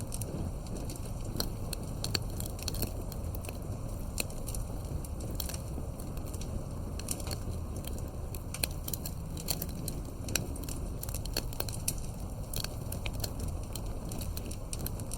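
Wood campfire crackling: frequent sharp, irregular pops and snaps over a steady low rumble.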